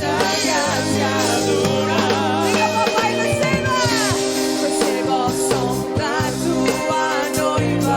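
A woman singing a Christian worship song with vibrato over a full band with bass and drums.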